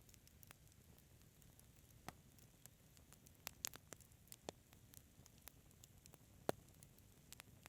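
Wood fire in a fireplace crackling quietly: sparse sharp pops and snaps over a faint low hiss, the loudest pop about six and a half seconds in.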